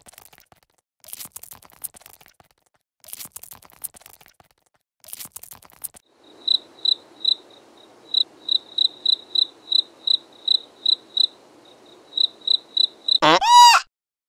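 Cricket-like insect calling: a few short raspy bursts about two seconds apart, then high, clear chirps at about three a second from about six seconds in. Near the end a much louder pitched animal call cuts in.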